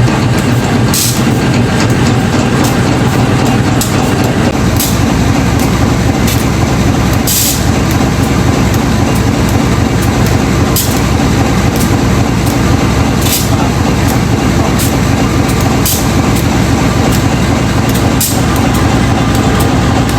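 GE 7FDL-8 diesel engine of a locomotive running at a steady, loud idle, with brief hisses every few seconds.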